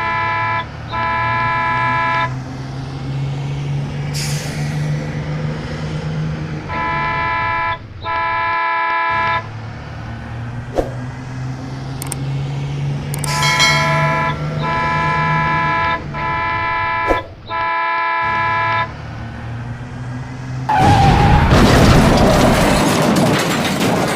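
Bus 'telolet' multi-tone air horn playing repeated musical phrases, each blast a second or two long with short gaps, over a steady low engine idle. A loud rush of noise takes over for the last few seconds.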